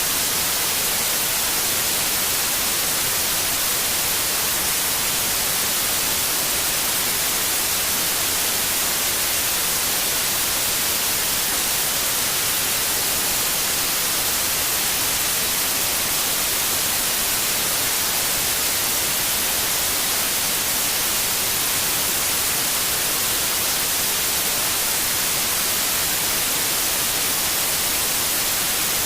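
Steady white noise: an even, unchanging hiss, brighter in the high frequencies, played as a sleep sound for babies.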